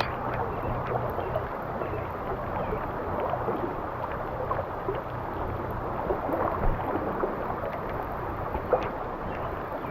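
Flowing stream water rushing steadily, with a few faint ticks.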